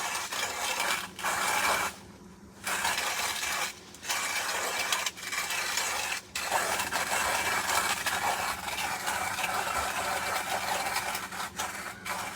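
Hand-cranked coffee grinder grinding beans, with a few short breaks; the longest comes about two seconds in and lasts about half a second.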